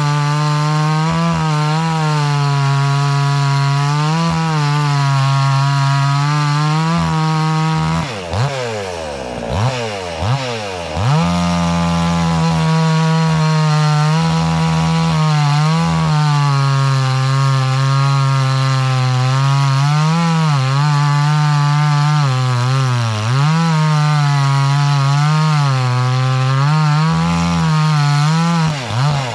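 Two-stroke gas chainsaw running near full throttle while cutting through a log, its engine pitch sagging and recovering as the bar bites. About eight seconds in the throttle drops off and the engine revs back up before it resumes cutting.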